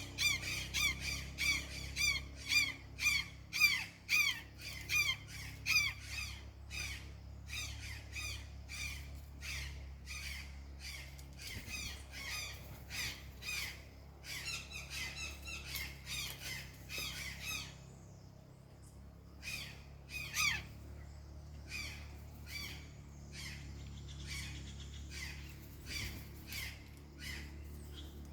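Birds giving a fast series of harsh, repeated squawking calls, about three a second, loudest at first and then thinning out, with a short pause past the middle before the calls pick up again.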